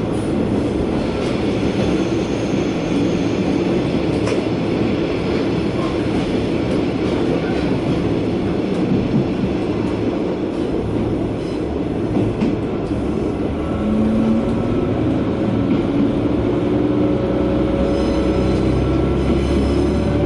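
KiHa 120 diesel railcar running along the line, heard from inside the cabin: a steady rumble of engine and wheels on rail. From about two-thirds of the way in, an engine note rises slowly in pitch as the railcar picks up power.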